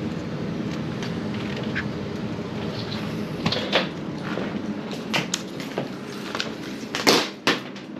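Steady low hum, then a series of sharp clicks and knocks from handling things at close range. The loudest knock comes about seven seconds in.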